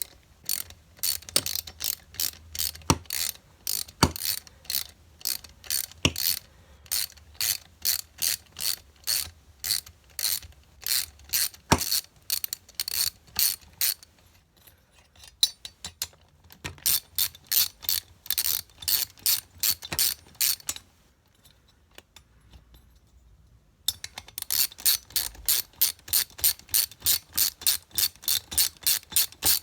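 Hand socket ratchet clicking steadily, about three clicks a second, as the cylinder head bolts of a small two-stroke generator engine are loosened. It goes in three runs with short pauses between bolts, and there are a few heavier knocks in the first half.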